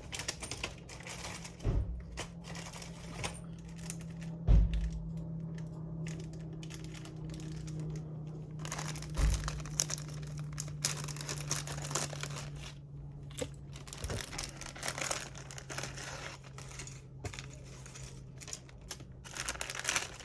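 Small parts being handled on a workbench: irregular clicking and rustling, with crinkling like plastic packaging and three heavier thumps, over a steady low hum.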